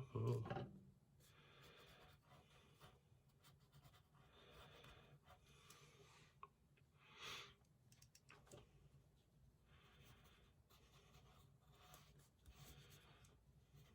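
Faint pencil strokes scratching on paper as lines are drawn, with a brief low thump right at the start.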